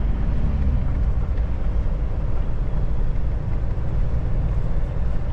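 Kenworth T680 semi truck's diesel engine and road noise heard from inside the cab while driving at low town speed: a steady low rumble with a faint steady hum above it.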